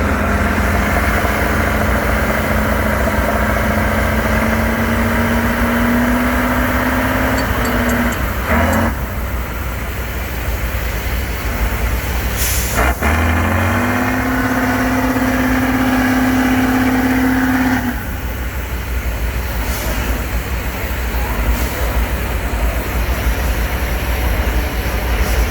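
Heavy off-road trial truck's diesel engine working hard under load, its note climbing slowly. It breaks off twice, once with a short sharp hiss, and each time picks up and climbs again, then eases off about two thirds of the way through to a lower, rougher running.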